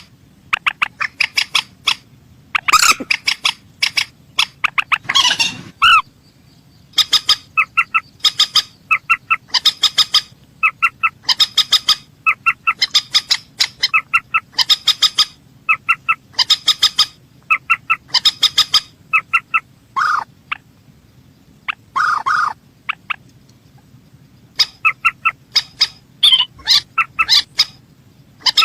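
Mandar sawah, a rail, calling in quick series of short, clipped notes, each series about a second long and repeated over and over. A few longer, harsher calls come about three and five seconds in and again around twenty seconds. A faint low hum lies underneath.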